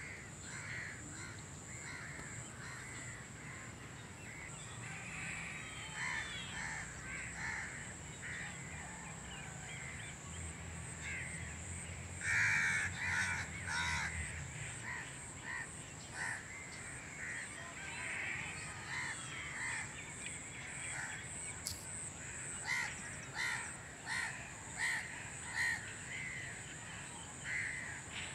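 Birds calling over and over in runs of short calls, thickest about twelve seconds in and again near the end, over a steady high-pitched hum.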